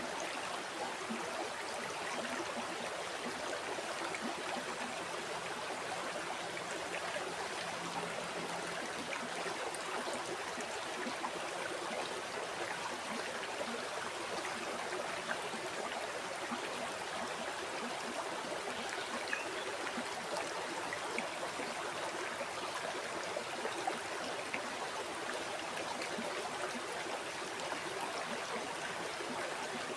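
River water flowing over rocks, a steady rushing with small splashes and gurgles.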